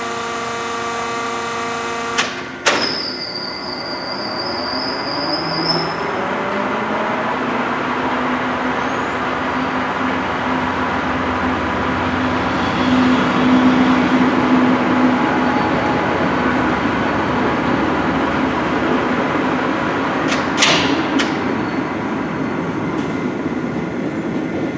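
LeBlond Regal engine lathe's geared headstock running at its top spindle speed of about 720 RPM, a steady mechanical gear whine. About two seconds in there is a clunk, after which it runs with a fuller, rushing sound and a thin high whine for a few seconds.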